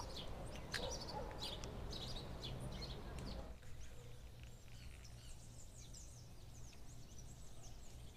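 Small birds chirping again and again over a low, steady background rumble. About three and a half seconds in, the rumble drops away and quicker, fainter chirps carry on.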